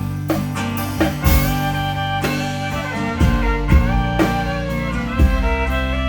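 Live band playing an instrumental break: fiddle and guitar over a steady drum-kit beat.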